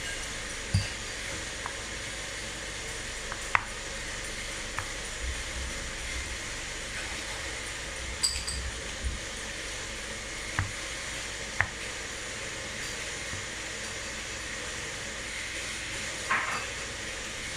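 Homemade playdough being stirred and kneaded in a bowl: a few scattered light clicks and knocks over a steady hiss.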